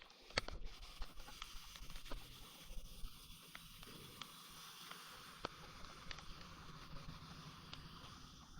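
Bicycle ride on a wet road: a faint, steady hiss of tyres and water, with scattered sharp clicks and knocks.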